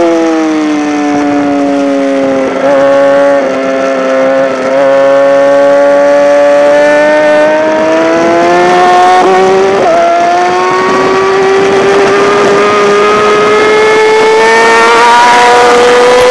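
Yamaha R6's inline-four engine running at high revs on track. The note falls over the first couple of seconds and stutters briefly a few times, then climbs slowly and steadily as the bike accelerates.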